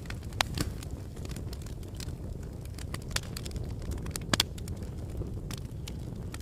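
Wood fire burning in a fireplace, a steady low rumble of flames with irregular sharp crackles and pops, a double pop about four seconds in the loudest.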